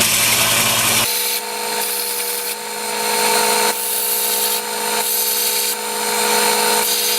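Electric grinder running as the bevel is ground onto a hardened carbon-steel cold chisel: a steady motor hum under a hiss of steel on the abrasive that swells and eases as the chisel is pressed on and worked.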